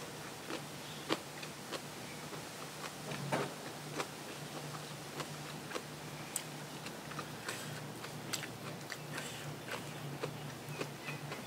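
A person eating: irregular crunchy bites and chewing clicks, several a second, over a faint low hum.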